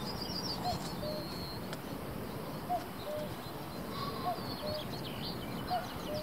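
Birds calling in the open air: a low two-note call, the first note higher than the second, repeated about every second and a half, with high chirps and twitters from small birds over it.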